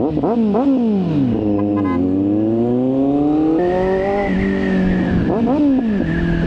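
Vehicle engine revved in two pairs of quick throttle blips, with the engine running on between them as its pitch sinks and then slowly climbs; a high steady whine joins about three and a half seconds in.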